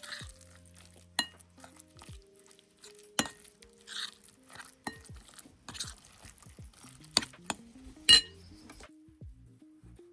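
Kitchen utensil clinking against a glass bowl or dish, a handful of sharp clinks at irregular intervals with the loudest near the end, over soft background music.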